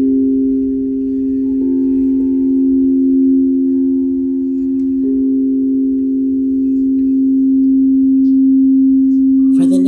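Crystal singing bowls ringing in long, steady, held tones. One low tone stays loudest throughout, while the higher tones above it change pitch a couple of times as other bowls are played.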